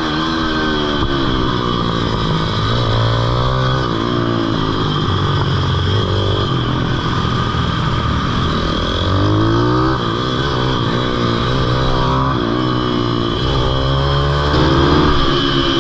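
Pitbike's small single-cylinder engine running hard, its pitch rising and falling again and again as the throttle is opened and closed.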